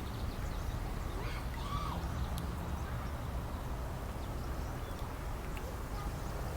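Steady low outdoor rumble with a faint short bird call about two seconds in.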